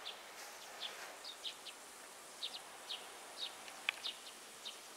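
A small bird chirping over and over: short, high chirps about two or three a second, with a single sharp click about four seconds in.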